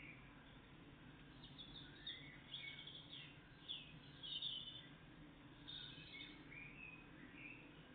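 Faint songbird song and calls: a run of short, high chirps and falling notes over a low, steady background hum.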